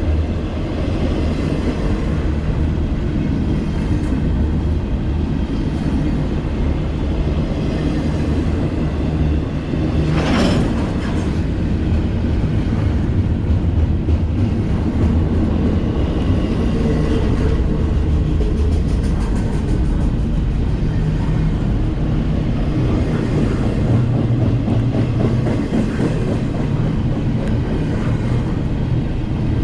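Double-stack intermodal freight train rolling steadily past at close range: the continuous low rumble of its wheels on the rails, with one brief sharp noise about ten seconds in.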